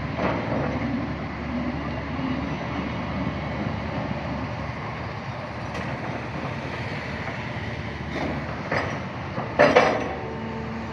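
Excavator running steadily, with occasional metallic clanks from the machine, the loudest near the end.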